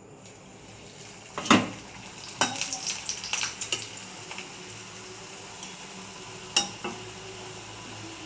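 Hot oil sizzling steadily in a frying pan while a metal utensil stirs and knocks against the pan: one loud clatter about a second and a half in, a run of clinks and scrapes over the next second and a half, and another sharp knock near seven seconds.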